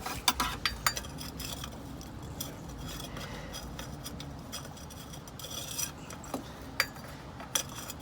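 Hand wrench working a fitting on a truck's underside: irregular light metal clinks and scraping rubs, with a few sharper clicks near the start and near the end.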